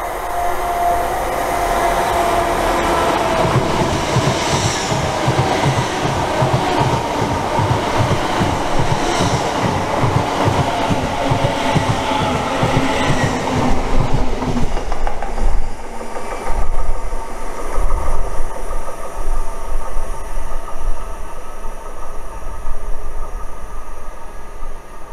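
Hitachi Class 800 passenger train passing along the platform, its wheels beating a fast, even clickety-clack over the rail joints as the coaches go by. About fifteen seconds in the rhythm gives way to a deep, uneven rumble as it draws away.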